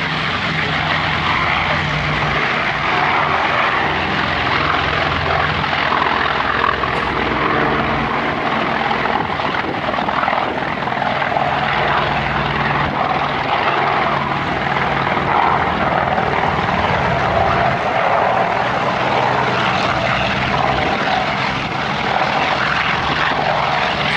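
Massed formation of piston-engined propeller warbirds flying over together, a loud, steady drone of many engines.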